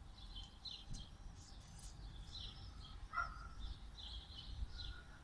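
Small birds chirping and twittering over a low, steady background rumble, with one sharper call about three seconds in.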